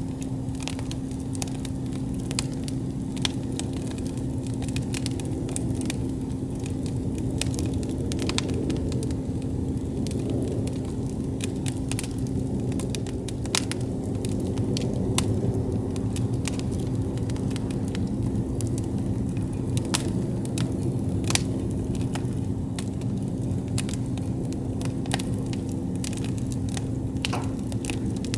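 Wood campfire crackling, with many sharp, irregular pops and snaps over a steady low rumble from the burning fire.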